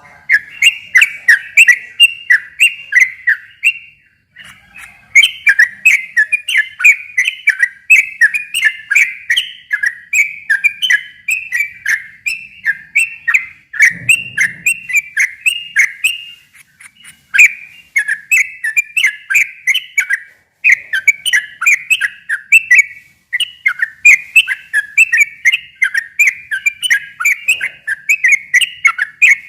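Yellow-vented bulbul singing a long run of rapid, bubbly chirping notes over and over, with brief pauses between phrases.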